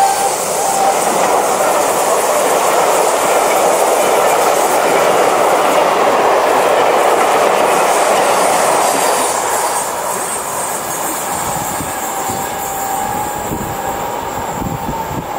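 Coaches of a steam-hauled Pullman train rolling past at close range, wheels clattering over the rails. The noise drops away about ten seconds in as the train moves off. Right at the start the tail of a whistle dies away.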